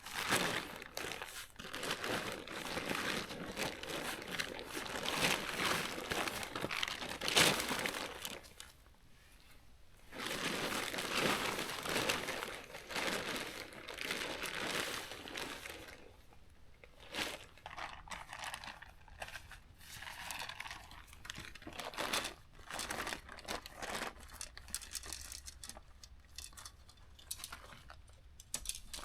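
Tent fabric rustling and crinkling as it is handled and spread out, in two long stretches with a pause between, then lighter scattered crackles and clicks.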